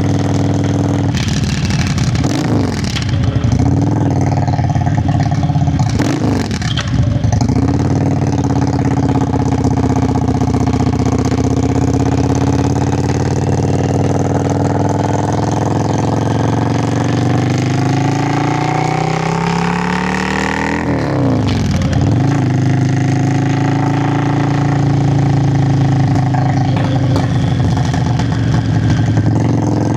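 Yamaha Virago XV535's air-cooled V-twin exhaust while riding. The revs dip and pick up again twice in the first seven seconds. Then the engine holds steady, climbs slowly in pitch, and dips sharply once more a little past the two-thirds mark.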